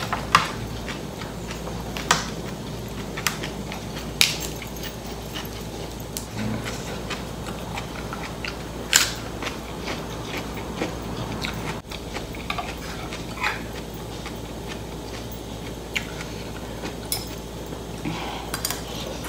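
Chewing and mouth sounds of a person eating rice vermicelli noodles with chicken feet, with scattered sharp clicks and smacks.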